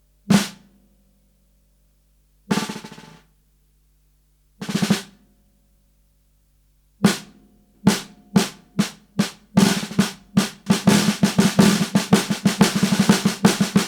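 Snare drum: a few single hits spaced a couple of seconds apart, then strokes that speed up steadily until they merge into a continuous drum roll near the end.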